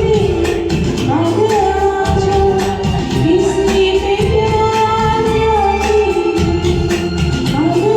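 A woman singing a Hindi film song with instrumental accompaniment, holding long notes and sliding between pitches.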